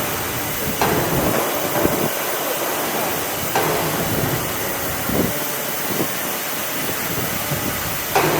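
Assembly-shop noise: a steady hiss with a few sharp knocks, about 1 s, 3.5 s and 8 s in.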